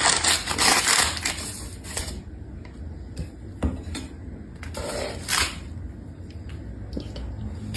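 Clattering and knocking of hard objects, dense for about the first two seconds, then a few separate sharp knocks.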